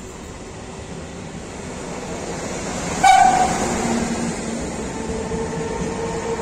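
Trenitalia E402 electric locomotive and its passenger coaches rolling through the station with a building rumble. A short, sharp horn blast about three seconds in is the loudest sound, and a steady whine sets in near the end.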